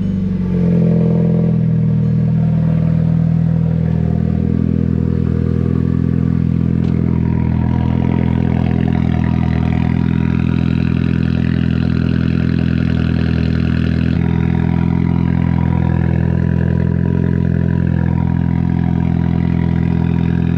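Volkswagen GTI's turbocharged four-cylinder idling steadily and loud just after a cold first start, through a newly clamped-on Tomei titanium muffler and catless downpipe.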